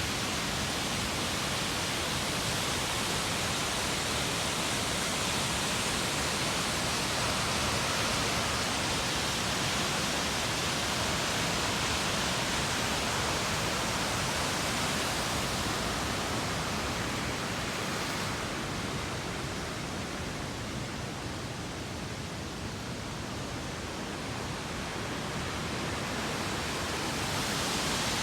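Chinda Falls, a waterfall on the Ōno River, pouring in a steady, dense rush of falling water. The sound grows a little duller and softer about two-thirds of the way through, then comes back full near the end.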